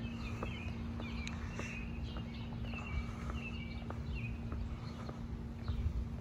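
Small birds chirping repeatedly, with soft footsteps on pavement over a steady low outdoor rumble and a faint steady hum.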